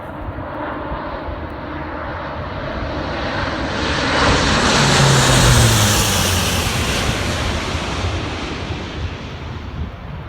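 A low-flying military aircraft passing by: its engine noise builds to a peak about five seconds in, drops in pitch as it goes past, and fades away.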